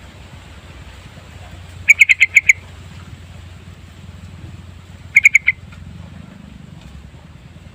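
Sooty-headed bulbul giving two short bursts of rapid chattering notes, about six notes around two seconds in and four more about five seconds in, over a faint low hum.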